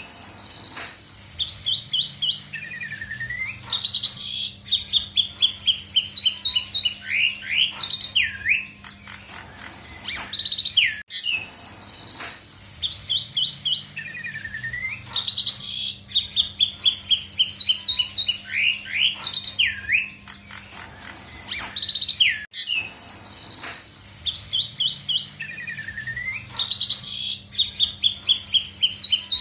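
Asian pied starling (jalak suren) singing a varied song of high whistles, rapid runs of notes and steep sweeping calls. The same phrase repeats about every eleven seconds, over a faint steady hum.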